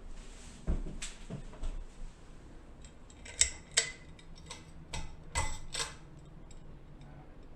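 Hunter Stratford II ceiling fan running with a faint steady hum, under five sharp clicks or clinks clustered in the middle.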